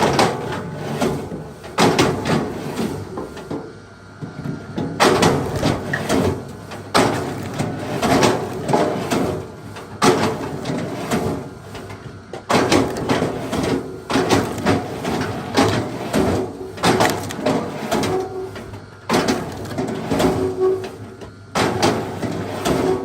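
Wood being worked by hand: repeated knocks and scraping strokes in irregular clusters of several a second, with brief pauses between runs.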